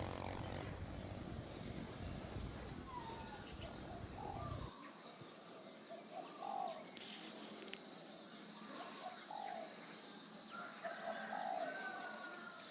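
Birds calling outdoors: short, repeated, swooping calls, with a steady faint high tone behind them. A low background rumble cuts off abruptly about a third of the way in.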